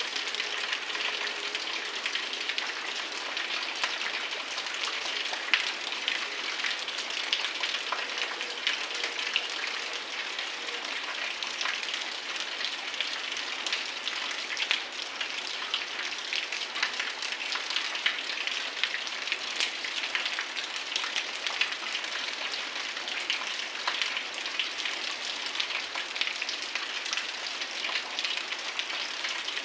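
Heavy rain falling steadily, a dense even hiss full of many small close drop impacts.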